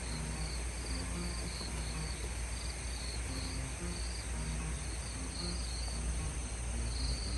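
Crickets chirping in short pulsed trills, about two a second, over a steady low rumble, with soft music underneath.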